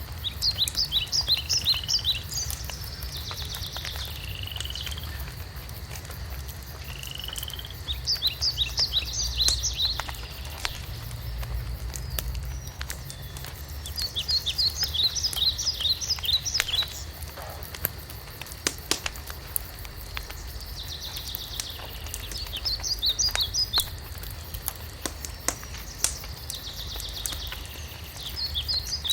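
A songbird singing short phrases of rapid high notes about five times, with short whistled notes between phrases, over the scattered crackles and pops of a wood fire and a low steady rumble.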